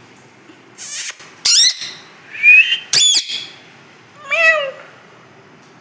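Pet parrot making a run of about five short, shrill calls and whistles, each gliding in pitch, with short pauses between them.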